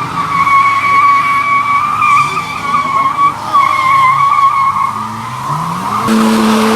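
Car tyres squealing under wheelspin in a long, steady screech, with the engine revving up about four and a half seconds in and holding high near the end.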